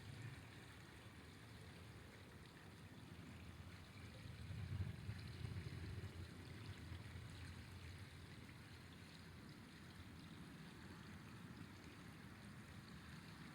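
Faint, steady rush of a flowing river, with a low rumble that swells briefly about five seconds in.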